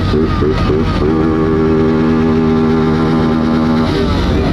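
Motorcycles running together in a large group ride, with a steady rumble throughout. A held, even-pitched engine or horn note sounds for about three seconds and stops about four seconds in.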